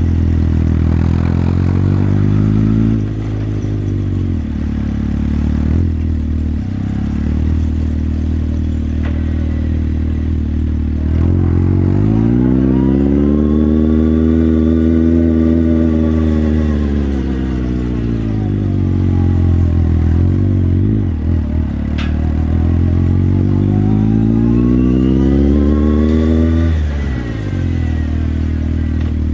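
Motorcycle engine heard from the rider's seat, its pitch climbing and easing off twice as the throttle is opened and closed, with a sharp drop in revs near the end.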